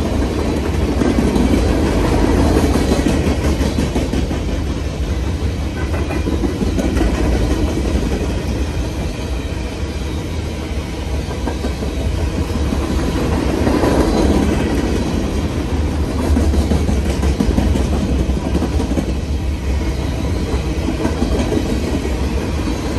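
Freight train's open-top gondola cars rolling past, their steel wheels rumbling steadily on the rails, swelling a couple of seconds in and again about halfway through.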